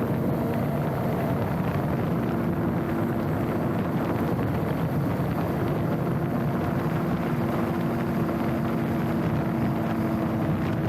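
Mountain bike rolling at speed: tyre noise over the trail surface and wind buffeting the handlebar-mounted camera's microphone, with a steady hum underneath.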